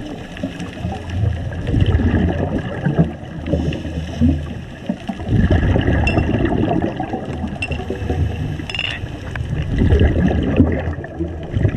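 Underwater scuba sound: a diver's exhaled bubbles gurgling and rumbling out of the regulator in three surges, roughly one breath every four seconds.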